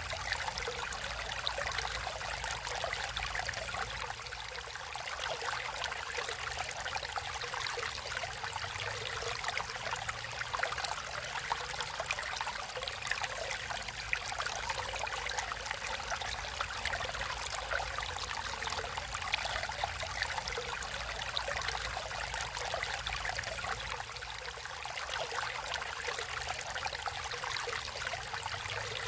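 Natural stream water flowing and trickling steadily, a constant babble of many small splashes.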